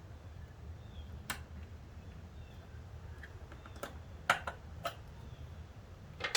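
Scattered sharp clicks and knocks of hand work on a car seat's frame and bracket: one about a second in, a quick cluster around four to five seconds, and the loudest at the very end, over a low steady hum.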